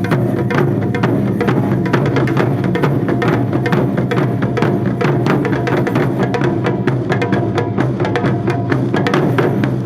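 Percussion music: rapid drum and wood-block-like strikes over sustained pitched tones.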